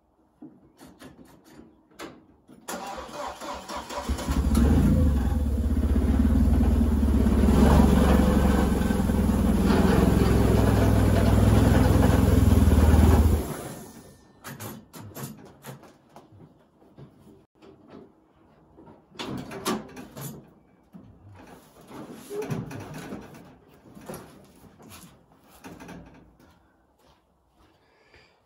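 Mid-mounted Audi/VW 1.8-litre turbocharged 20-valve four-cylinder in a Triumph Spitfire running as the car rolls into the garage, then cutting off abruptly about halfway through when the ignition is switched off to stop it: the clutch would not disengage and the brakes were too spongy to hold the car. Afterwards there are a few faint knocks and clunks.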